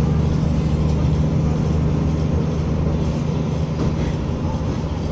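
Materfer diesel railcar running along the line: a steady low engine drone with continuous wheel-and-rail rumble.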